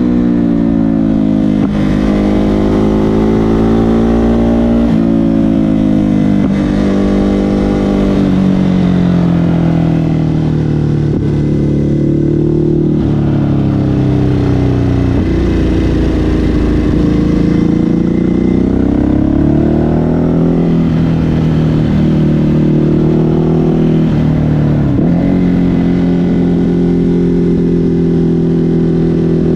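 Ducati Hypermotard 950 SP's 937 cc L-twin engine through an SC Project exhaust, under way. The revs climb and fall again and again, with sudden drops as gears are changed, over wind rush on the microphone.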